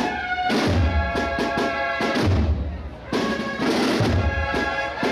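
Processional band of brass and drums playing a march in the street: held brass chords over heavy bass-drum beats about every second and a half, with quicker side-drum strokes between them.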